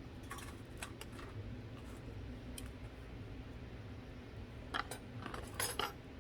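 Dying campfire crackling: scattered sharp pops, a few in the first second and a quick cluster about five seconds in, over a steady low hum.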